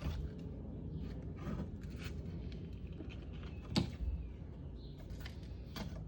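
Scattered clicks and knocks as an opened refrigerator water filter cartridge is handled, with the sharpest knock a little under four seconds in, over a low steady hum.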